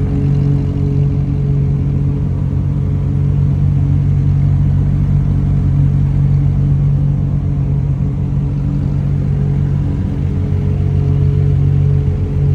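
Car engine idling steadily, a deep even drone that holds the same pitch throughout without revving.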